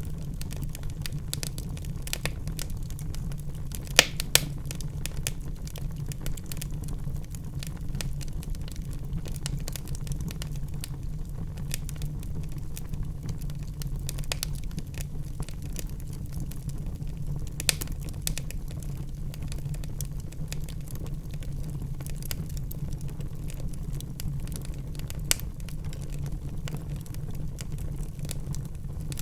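Wood fire crackling in a fireplace: irregular snaps and pops over a steady low rumble, with a couple of sharper, louder pops about four seconds in and single ones later on.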